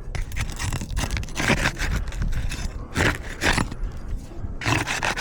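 Asphalt roof shingles being pried up and broken loose from their sealant strip, in a series of irregular scrapes and crackles, during a repairability test that checks whether the shingles tear when lifted.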